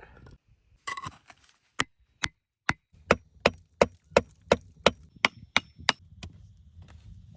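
Wood being chopped by hand: three spaced strokes, then a quick run of about a dozen sharp chops at roughly three a second that stops about six seconds in.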